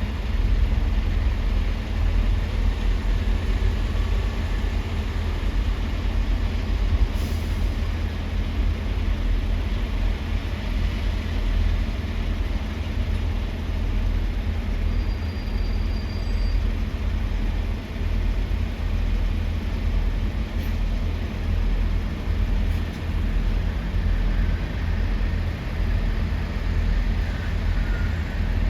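Heavy diesel engines running steadily, a continuous low rumble with an even hum underneath.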